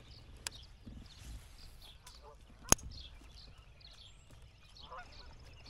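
Birds chirping in short repeated notes, with a lower call near the end. A single sharp click a little under three seconds in is the loudest sound.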